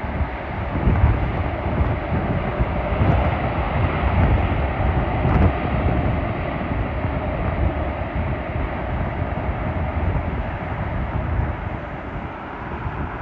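Jet airliner on landing approach passing low, a steady engine roar that eases off slightly near the end.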